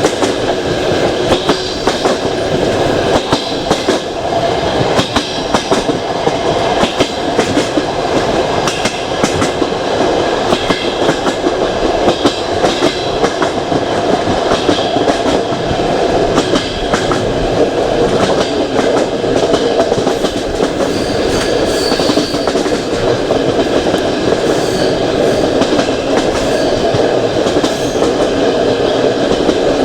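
Passenger train coach running on rails, heard from its window: a steady rolling rumble of the wheels with a scatter of short clacks over the rail.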